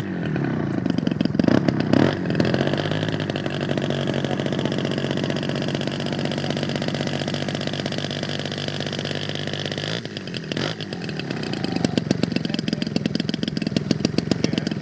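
A small engine running at a steady pitch, changing about ten seconds in to a fast, even pulsing.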